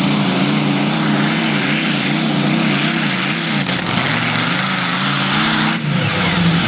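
Competition pulling tractor's engine running hard under load, its pitch wavering up and down. Near the end the sound breaks off abruptly and carries on at a steadier pitch.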